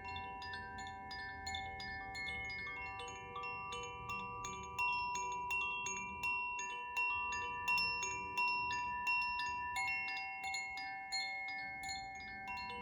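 Koshi chimes being rung in a steady swirl, a quick run of bright tinkling strikes, about five a second, whose ringing tones overlap. The strikes grow louder about a third of the way in. A lower steady tone from an alchemical crystal singing bowl sounds beneath them.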